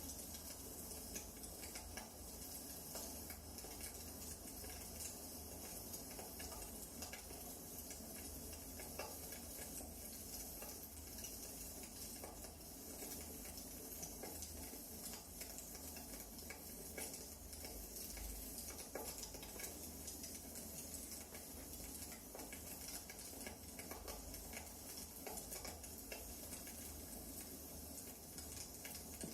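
Wood fire burning in a fireplace: a faint, steady hiss with many small, irregular crackles and pops from the burning logs.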